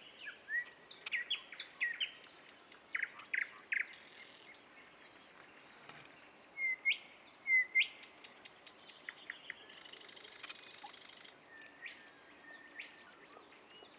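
Nightingale singing: a varied song of loud whistled and up-slurred notes broken by fast clicking, buzzing trills, in separate phrases with short pauses between them.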